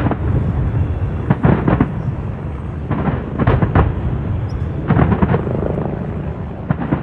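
Large fireworks display exploding: groups of sharp bangs every couple of seconds over a continuous low rumble of booms.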